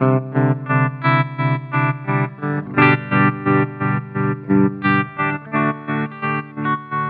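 Electric guitar chords played through the Mooer Red Truck pedal's tremolo effect, the volume pulsing evenly about three times a second, with a fresh strum about three seconds in.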